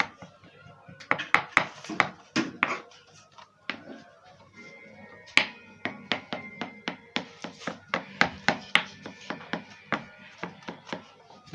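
Boiled egg being chopped and mashed finely with a utensil against a dish: an irregular run of sharp taps and clicks, several a second.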